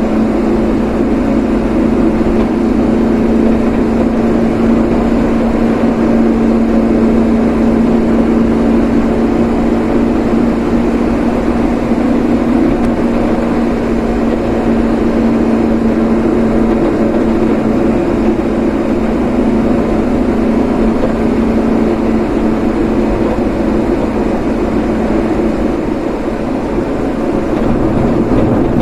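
Steady running noise of a moving road vehicle: a constant engine drone with road noise, easing slightly near the end before picking up again.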